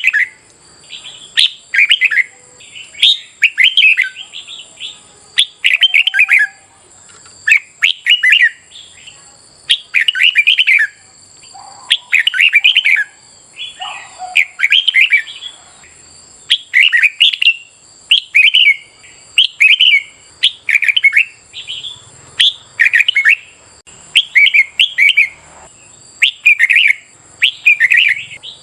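Red-whiskered bulbul singing, short bright phrases repeated about once a second, the kind of song played to caged bulbuls to train their voices and provoke them to sing back.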